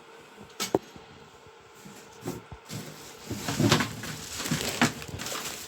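Handling noises: a couple of sharp clicks just under a second in, then a busier run of knocks and rustling in the second half, as of parts and packaging being handled.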